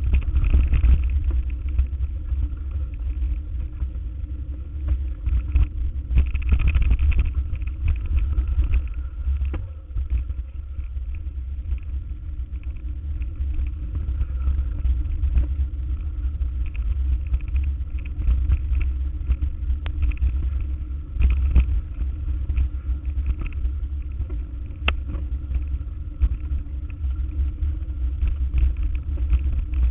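Car driving, with a steady low rumble and scattered knocks and rattles.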